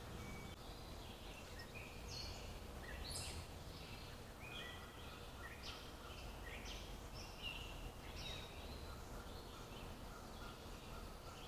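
Several birds calling and chirping, short high notes following one another all through, over a faint low background rumble.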